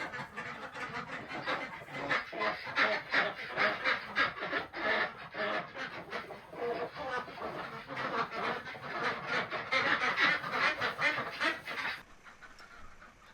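A flock of ducks quacking, many calls overlapping in a rapid, continuous chatter that stops suddenly near the end.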